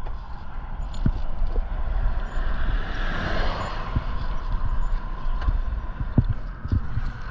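A road vehicle passing close by, its tyre and road noise swelling to a peak about three seconds in and fading away, over a constant low rumble.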